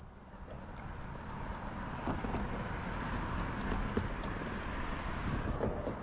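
Outdoor town ambience: a steady low rumble of distant traffic, rising over the first second, with a few faint knocks.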